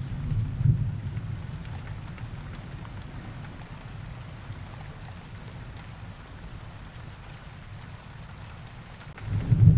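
Steady rain with rolling thunder. A low rumble dies away in the first second or so, leaving even rain hiss with faint drop ticks, and another rumble swells up near the end.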